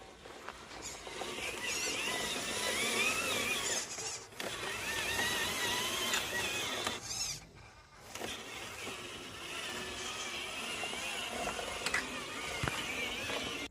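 Small electric motors of a homemade 1/8-scale RC dump truck whining, their pitch rising and falling as the speed changes, with a brief break about four seconds in and a pause near eight seconds.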